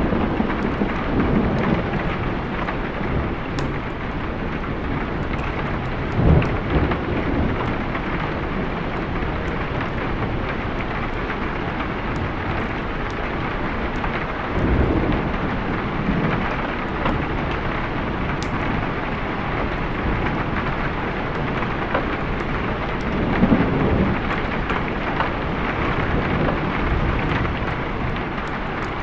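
Steady heavy rain with thunder rumbling low three times, swelling and fading over a second or two each. Faint scattered ticks sit on top.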